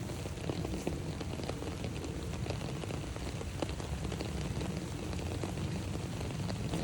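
Steady rain falling on an umbrella held overhead: a dense, even run of small drop ticks over a constant rushing hiss.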